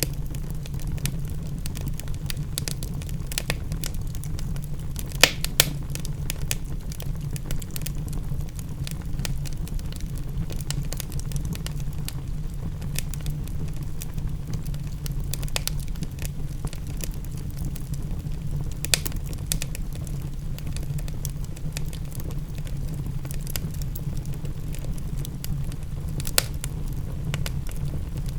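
Wood fire crackling steadily, with a few louder pops, over a steady low rumble.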